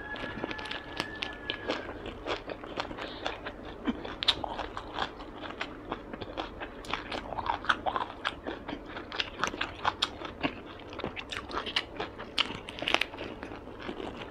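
Close-miked chewing and biting of a Vietnamese fresh spring roll (gỏi cuốn): many small, irregular wet mouth clicks and soft crunches.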